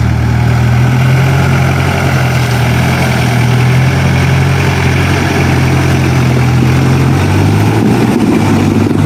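Off-road 4x4's engine running steadily at low revs, its note shifting slightly near the end.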